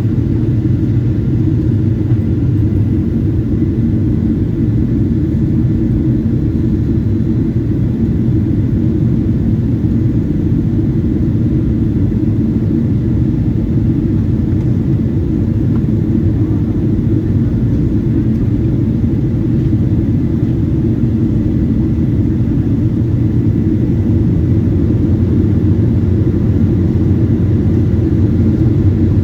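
Steady low rumble of cabin noise inside a Boeing 777-200 airliner during its descent: engine and airflow noise, unchanging throughout.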